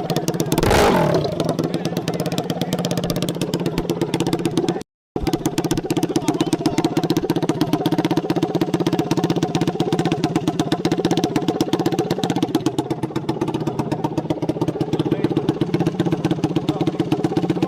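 Dirt bike engine running steadily close by, its rapid firing pulses even and unchanging. About a second in there is a brief loud burst with a falling sweep, and the sound drops out for a moment about five seconds in.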